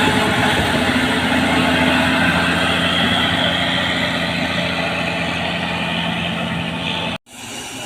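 Heavy truck's diesel engine running steadily as it climbs. The sound cuts out abruptly about seven seconds in and returns quieter.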